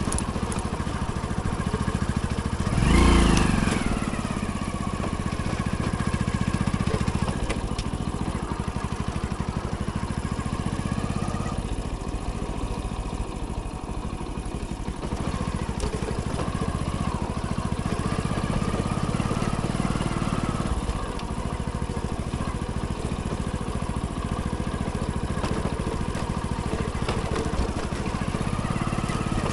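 Hero Splendor's small single-cylinder four-stroke engine running under way, its pitch rising and falling gently with the throttle. A brief loud surge with a falling pitch comes about three seconds in.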